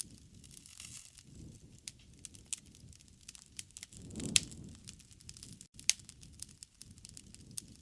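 Campfire crackling: scattered sharp pops of burning wood over the low, uneven sound of the flames, with one louder pop and a swell a little past the middle.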